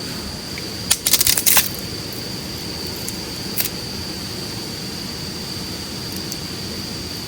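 A quick cluster of light, sharp clicks and clinks about a second in and a single click a little past the middle, like small hard objects knocking together, over a steady hiss and a steady high thin tone.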